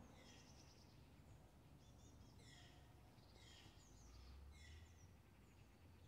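Faint early-morning park ambience: small birds calling repeatedly in short phrases of quick falling chirps, over a low steady background rumble.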